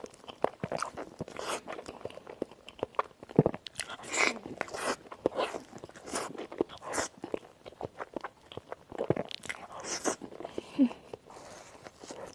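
Close-miked eating: crunchy bites and chewing, an irregular run of small crackles and crunches.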